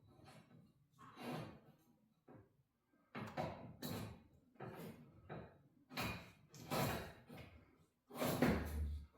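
A string of clanks, knocks and rattles from garage-door spring hardware being handled, with the heaviest knock, a dull thud, near the end.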